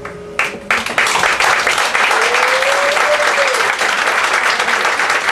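Audience applause breaking out sharply about half a second in, right after the song's last notes, and continuing as dense clapping. A single drawn-out call rises and falls in pitch over it in the middle.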